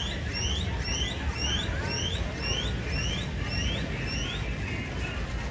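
A bird calling a quick series of short rising whistled chirps, about two a second, for roughly four seconds, over a steady low rumble.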